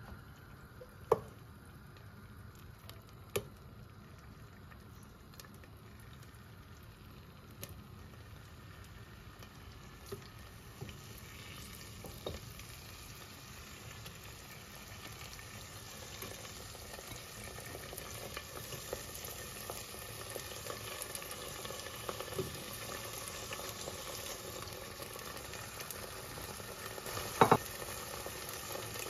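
Potato slices frying in hot oil on the bottom of a cooking pot: a faint sizzle that grows gradually louder. A few sharp knocks are heard, the loudest two close together near the end.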